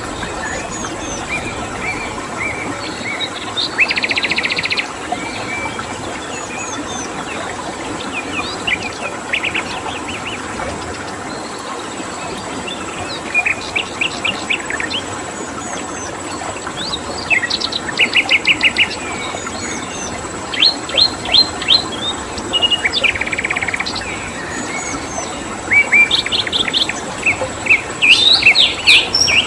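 Songbirds chirping and giving short rapid trills in bursts every few seconds, busiest near the end, over a steady rush of flowing stream water and a thin, steady high cricket tone.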